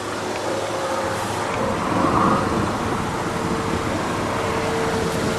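Steady running noise of a car: an even hum with a faint held whine, growing slightly louder.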